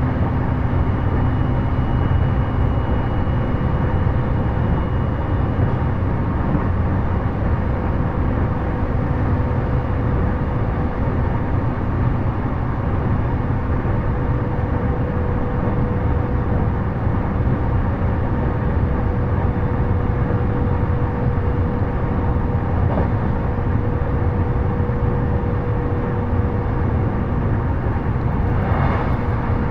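Cabin running noise of a JR E233-series electric train travelling at speed: a steady low rumble of wheels on rails, with a steady hum tone over it.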